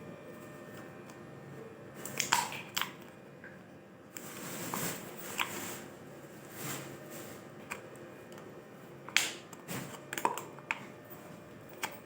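Scattered taps, clicks and crinkling from plastic cups and other materials being handled, with the loudest knocks about two seconds in and again near nine seconds.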